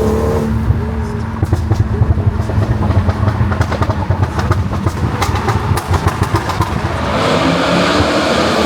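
Many sports-car engines running and revving at once, with a steady scatter of sharp pops over the low rumble. About seven seconds in, a louder rushing noise comes in, like a car accelerating close by.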